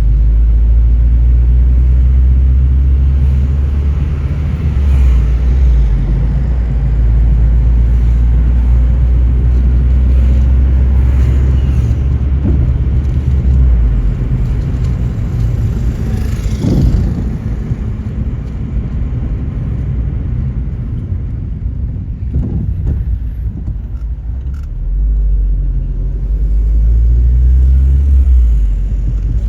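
Car driving on the road: a loud, steady low rumble of engine and road noise whose low hum shifts a few times as the speed changes, with a brief louder whoosh about halfway through.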